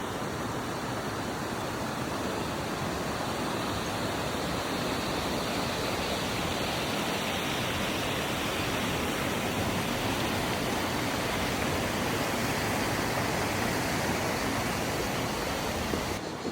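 Canyon river water rushing steadily, an even noise with no breaks. Just before the end it turns abruptly quieter and duller.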